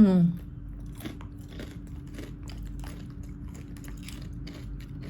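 Crunching and chewing on thick, crispy chips: a run of irregular crisp crunches, after a short vocal sound at the very start.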